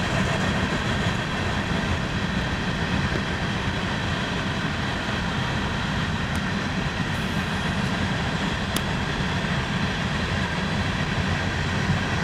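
A train going by nearby, a steady low rumble.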